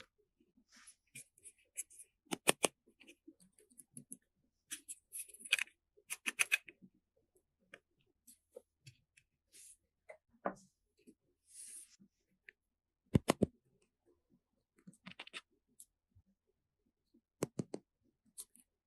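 Irregular small clicks, scrapes and rustles of objects being handled, with a few sharp knocks about 2.5, 13 and 17.5 seconds in.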